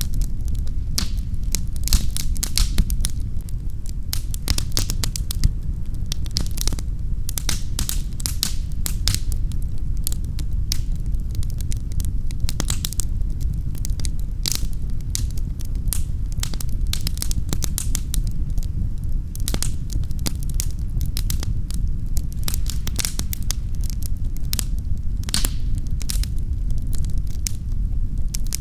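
Wood fire crackling in a fireplace: frequent irregular pops and snaps over a steady low rumble of flames.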